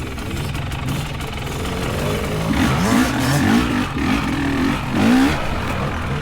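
Dirt bike engine revving up and down in repeated short throttle bursts, with steady engine running underneath.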